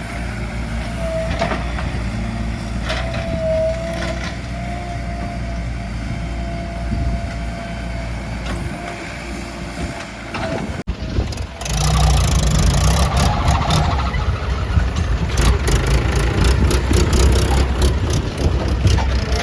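Diesel engines of a JCB 3DX backhoe loader and tractors running steadily, with a faint high whine and occasional knocks. About eleven seconds in the sound cuts sharply to a louder engine run with rapid clattering.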